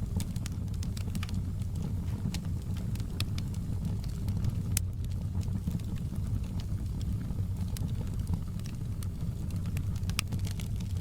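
Wood fire burning in a fireplace: a steady low rumble of flames with frequent, irregular sharp crackles and pops from the burning logs, the loudest pop about five seconds in.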